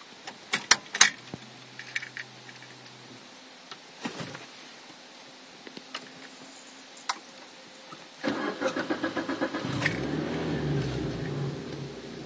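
Keys jangling and clicking at the ignition of a Suzuki Swift 1.3 VVT's four-cylinder engine. About eight seconds in, the starter cranks in even pulses for about a second and a half. The engine then catches and flares to a fast idle near 2700 rpm, easing near the end; the owner asks whether that start-up rev is normal.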